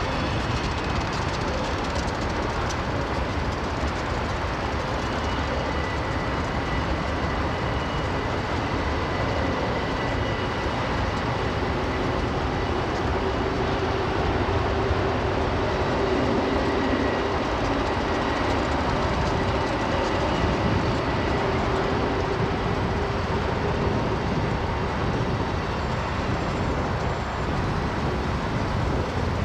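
Freight cars of a long mixed freight train rolling steadily past on the rails, a continuous rumble with faint high-pitched wheel tones coming and going.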